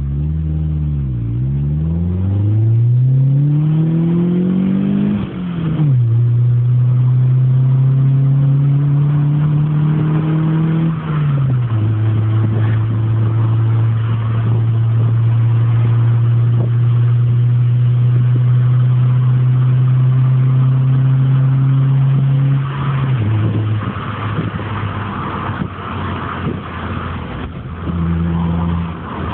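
MG ZR's four-cylinder engine through an aftermarket Powerflow exhaust and Pipercross induction kit, its note climbing steadily under acceleration, then falling sharply as if at an upshift about five seconds in and again about eleven seconds in. In between and after, it holds a steady drone, and near the end the note turns rougher and less even.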